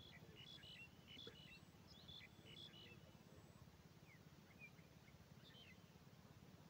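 Faint bird chirps and twitters over a near-silent evening background, in a quick cluster over the first few seconds and a few more calls about five seconds in.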